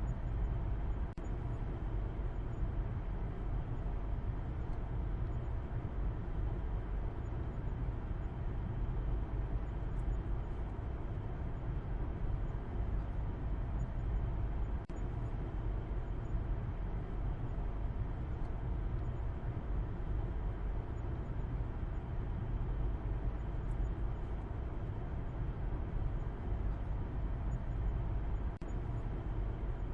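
Steady road noise of a car being driven: a continuous low rumble of tyres and engine with a hiss above it, broken only by brief faint dips about a second in, midway and near the end.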